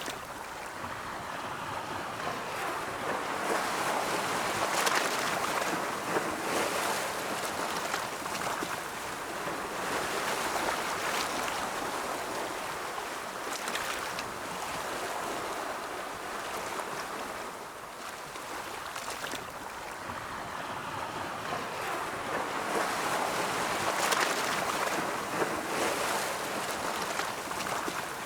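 Ocean surf: waves breaking and washing in, the rush of water swelling and easing every several seconds.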